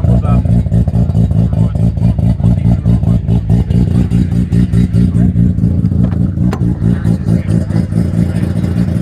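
Mazda rotary engine running loudly at idle, with a rapid, choppy exhaust pulse that never settles.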